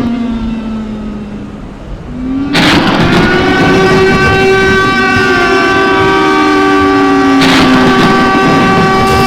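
A siren wailing: its pitch falls and dies away, then winds back up and holds steady before falling and rising again near the end. Two short bursts of hiss cut in partway through.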